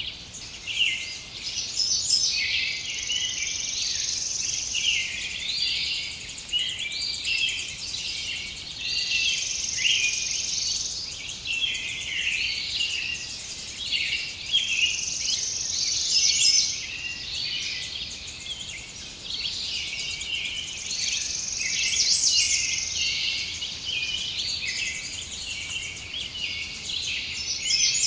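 Many birds chirping and singing at once in a dense, continuous chorus of short, high calls. A high, steady hiss, like insects, swells and fades behind them about every six seconds.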